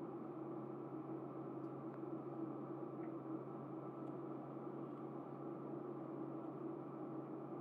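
Steady low hum of background room noise, with a couple of very faint small ticks.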